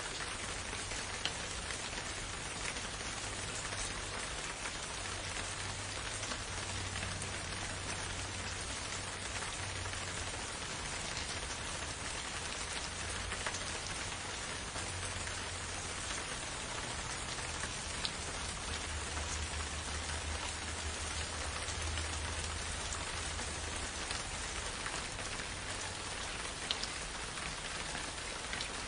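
Steady rain falling, an even hiss with scattered individual drops ticking, over a low rumble.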